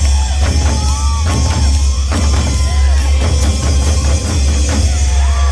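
Korean buk drums beaten in a fast, dense rhythm, with a heavy low boom under the strikes. A higher pitched line slides up and down above the drumming.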